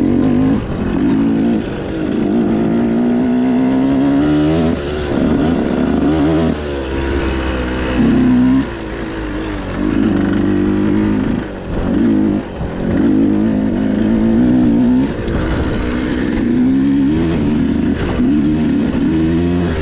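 Motocross dirt bike engine revving, its pitch climbing and dropping back again and again as the throttle is opened and closed.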